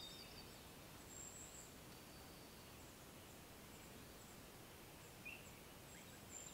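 Near silence: faint outdoor ambience with a few brief, distant bird chirps scattered through it.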